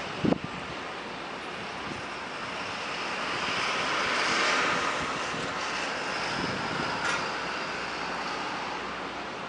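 A passing vehicle's rushing noise that swells to a peak about halfway through and fades away, after a brief thump near the start.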